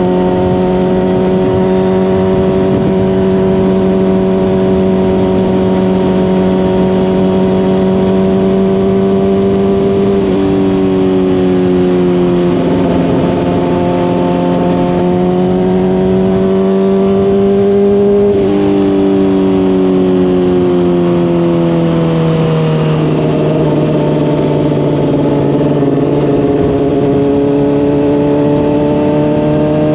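Honda CBR600RR inline-four running through a Hotbodies Stinger slip-on exhaust, ridden at a steady cruise with the engine note slowly climbing. Its pitch drops suddenly with an upshift about ten seconds in and again at about eighteen seconds. The revs then ease off for a few seconds and climb again near the end.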